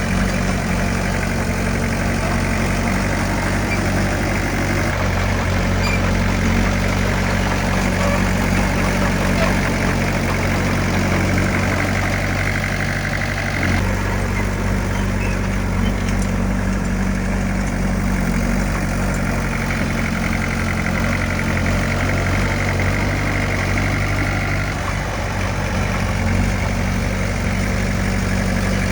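Heavy diesel engine of earthmoving equipment running steadily, with a brief dip in the sound about halfway through.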